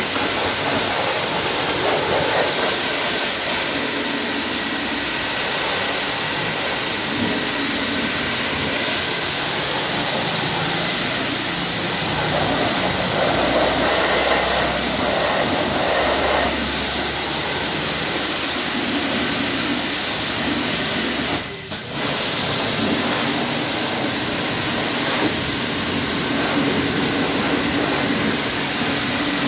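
High-pressure washer jet spraying water onto a car in a touchless wash, a steady loud hiss. It cuts out briefly about 21 seconds in, then resumes.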